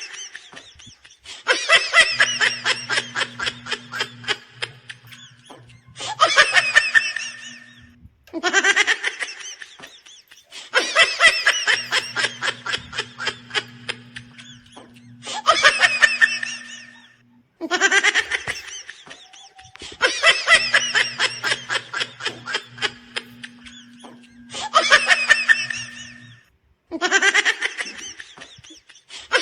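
A laugh that repeats as an identical loop about every nine seconds. Each round opens with a short rising whoop, runs into a long string of rapid ha-ha pulses, and ends with a shorter laugh before a brief pause.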